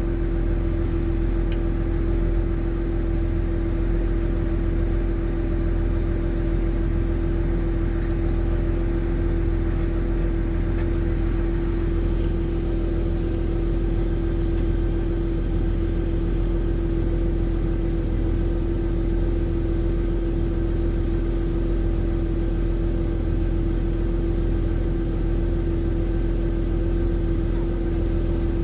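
Backhoe's diesel engine running steadily at an even speed, a low rumble with a constant hum.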